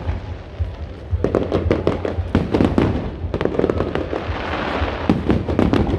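Aerial fireworks going off in rapid volleys of sharp bangs and crackling, easing briefly about a second in before the bursts pile up again.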